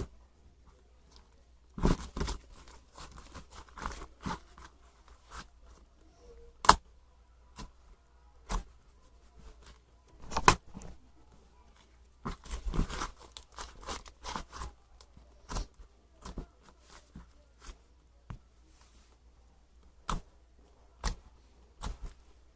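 Irregular handling noises: scattered sharp clicks and taps with short bursts of rustling that sound like tearing or crinkling, the sharpest clicks about seven and ten seconds in.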